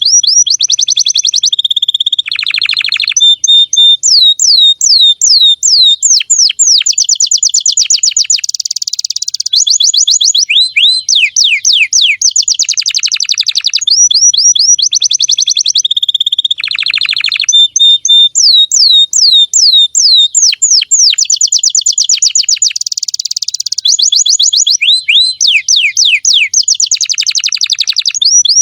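Domestic canary, said to be a female, singing a long, loud song: runs of rapid falling whistled notes alternate with fast buzzy trills and short held notes, with only brief breaks.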